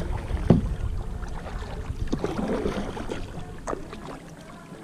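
Kayak and paddle sounds: water sloshing, with a few sharp knocks, against a low wind rumble on the microphone that dies away near the end.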